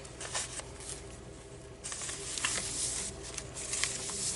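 Paper and card rustling, with scattered light clicks and taps, as the pages, pockets and tags of a handmade junk journal are handled and turned. The rustle swells about two seconds in.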